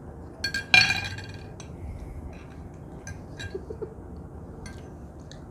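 Cutlery clinking against plates: a couple of light clinks, then one loud ringing clink about three-quarters of a second in, followed by scattered small taps.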